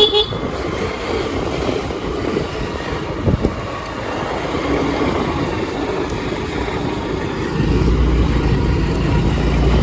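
Motor scooter running on the move, with wind on the microphone; a deeper steady hum comes in near the end.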